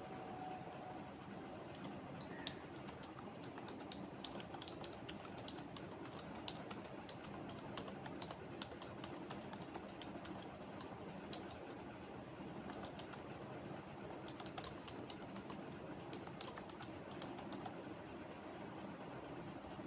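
Computer keyboard typing: irregular runs of light key clicks over steady low background noise.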